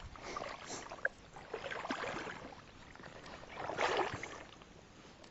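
Soft water and handling sounds in a fishing kayak: three quiet swells of noise about two seconds apart, with a sharp click about a second in.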